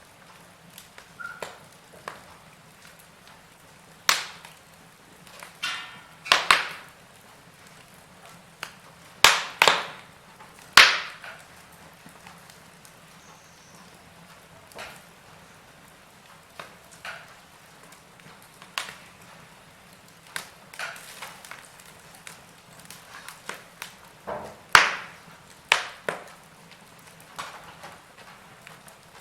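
Wood fire in a fireplace crackling, with irregular sharp pops and snaps at uneven intervals over a low steady hiss. Several louder snaps stand out, in a cluster around the first third and again near the end.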